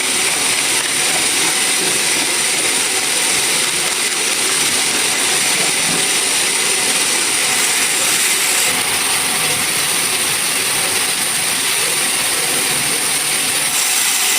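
Sawmill machinery running: a loud, steady, hissing whine with a thin high tone that holds throughout.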